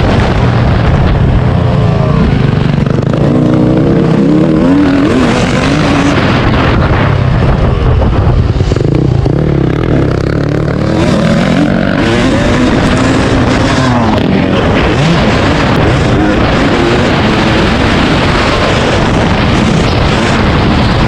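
Dirt bike engine revving up and down repeatedly as it rides, over a loud steady rumble.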